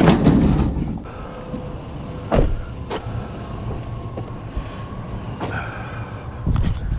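Scrap being handled in a dumpster: a loud rustling scrape in the first second, then a few separate knocks and clanks, over a steady low rumble.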